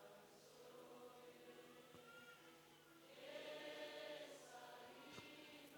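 Faint choir singing, barely above silence, swelling slightly a little past halfway.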